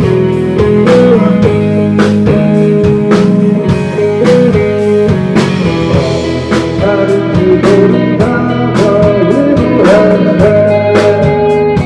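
Indie rock band playing live: electric guitars over bass and a drum kit with a steady beat. A guitar line with bending, wavering notes comes in toward the middle.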